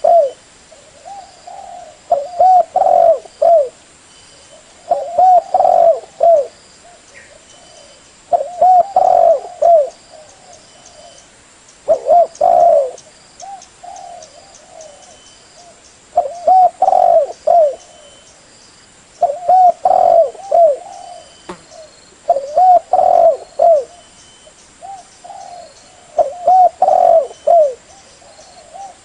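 Spotted dove (terkukur) cooing: phrases of several short low coos, one phrase every three to four seconds, about nine in all.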